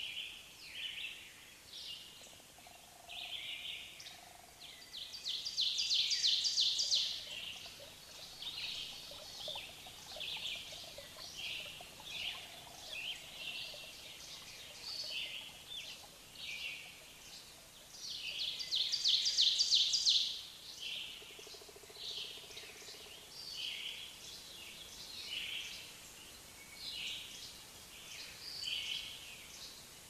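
Small birds calling with many short chirps, and two louder, fast trilling phrases about five and eighteen seconds in, each lasting about two seconds.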